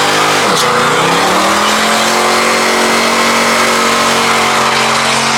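Car engine revved hard: a quick blip about half a second in, then held at a steady high rev.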